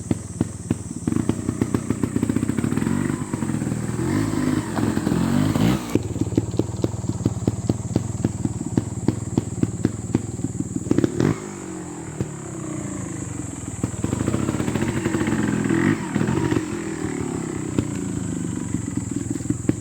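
Beta Evo 300 trials motorcycle engine running at low revs and being blipped, its revs rising and falling repeatedly with sharper surges about five, eleven and sixteen seconds in. Frequent sharp clicks and crackles run through it.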